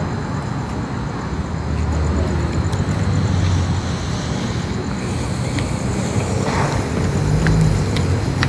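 Street traffic: cars passing on the road with a low engine rumble that swells twice.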